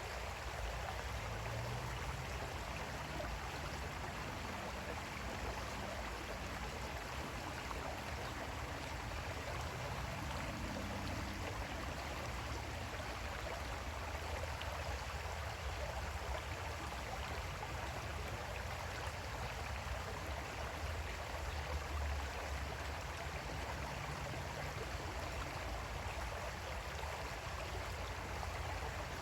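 Creek water flowing over stones in a steady rush.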